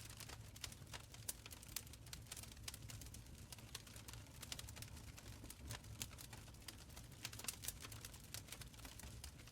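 Wood fire in a stone fireplace crackling steadily: many small sharp pops and snaps over a low, soft rumble of the flames.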